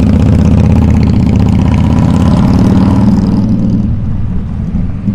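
Harley-Davidson V-twin motorcycle engine running loud through its exhaust; the note climbs a little, then eases off and quietens about four seconds in.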